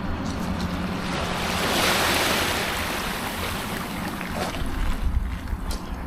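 Ocean surf washing in, one wave swelling and fading about two seconds in, with wind rumbling on the microphone.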